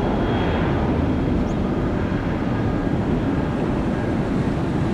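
Jet aircraft engines heard at an airport: a steady, even rumble with no distinct events.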